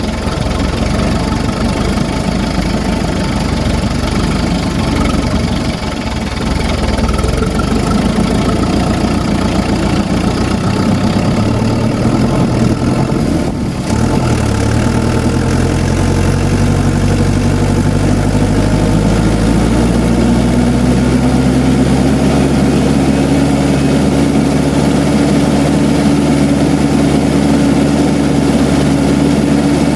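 Diesel engine of farm machinery running steadily, its note rising slowly about two-thirds of the way in.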